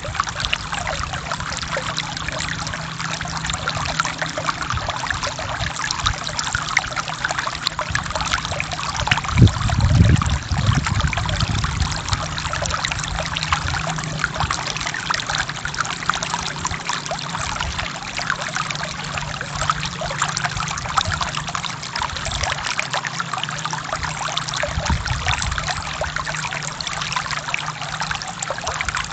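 Forest stream flowing: a steady trickling rush of water. About ten seconds in, a brief, louder low gurgle rises over it.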